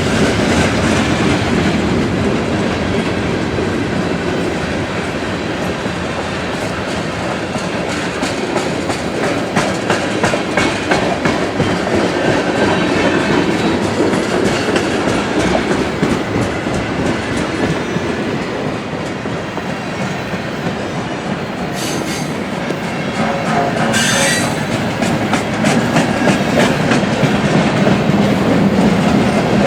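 Freight train cars rolling past close by, their wheels clicking steadily over the rail joints, with a brief high wheel squeal near the end.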